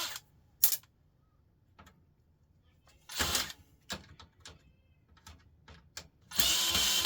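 A power drill running on a screw stops, followed by scattered clicks and a short clatter of printer parts being handled, with one louder rattle about three seconds in. The drill starts whining again about six and a half seconds in.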